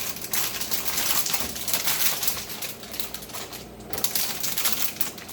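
Plastic bags of shredded cheese crinkling and rustling as they are handled, with a short lull a little past the middle.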